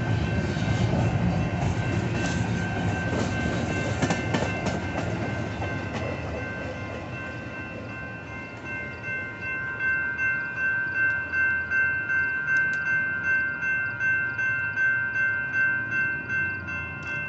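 The tail end of an empty intermodal freight train rolling past, its wheel and car noise fading away over the first several seconds. Then a railroad crossing bell rings on steadily, about one and a half dings a second.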